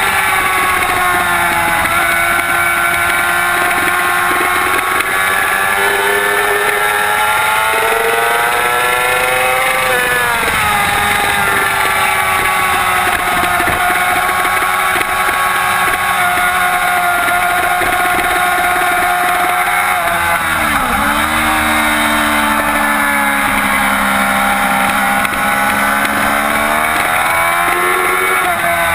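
2007 Yamaha YZF-R6's 600 cc inline-four engine at racing speed at high revs, its pitch rising and falling through the gears. The pitch drops sharply about two-thirds of the way through, then climbs again near the end.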